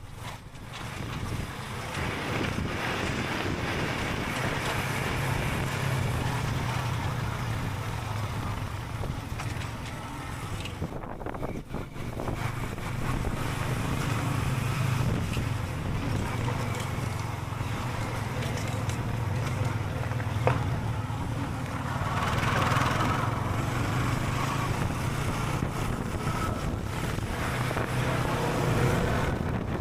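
Motorbike engine running steadily while riding, with wind noise on the microphone. It drops off briefly about eleven seconds in.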